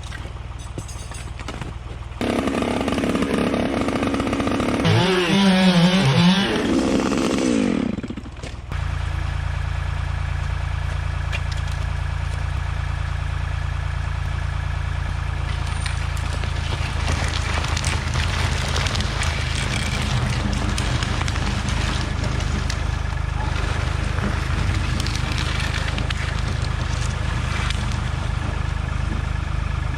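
A chainsaw running and revving up and down as it cuts, stopping abruptly about eight seconds in. After that, a steady low engine drone runs on, typical of a tractor.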